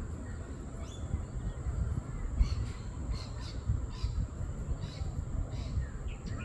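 Parrots squawking: a string of short, harsh calls starting about two seconds in, over a steady low rumble.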